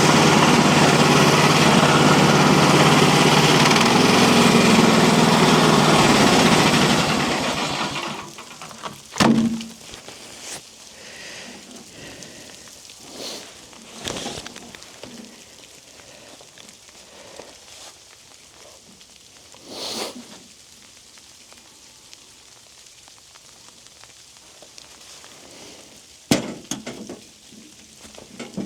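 Mechmaxx bandsaw sawmill's engine running steadily, then shut off and dying away about eight seconds in. Afterwards there are a few scattered knocks and clanks, with the loudest coming about a second later and again near the end.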